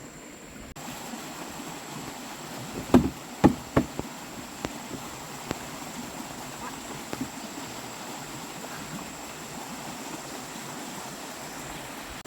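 A few sharp knocks, three loud ones close together about three seconds in, then lighter scattered taps, over a steady hiss.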